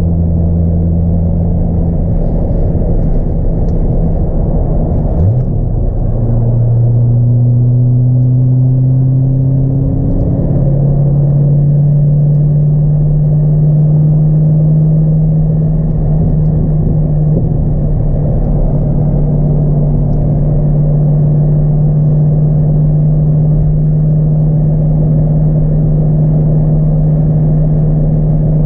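2002 C5 Corvette's LS1 V8, fitted with a cold air intake, running under way, heard from inside the cabin. The engine note changes a few seconds in, climbs slightly, then steps up to a higher pitch about a third of the way through and holds steady.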